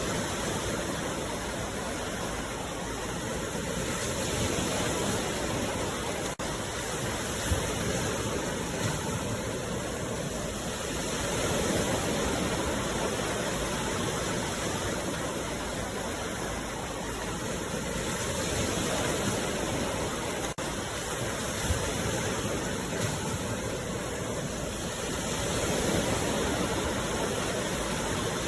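Sea waves washing on the shore, a continuous rush that swells and eases about every seven seconds.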